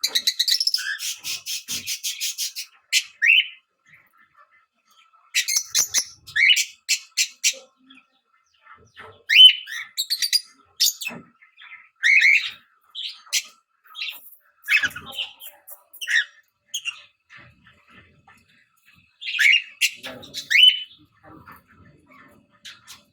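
Fischer's lovebird giving shrill chirps and short squawking call notes in clusters with pauses, opening with a fast rapid-fire chatter of about eight to ten notes a second.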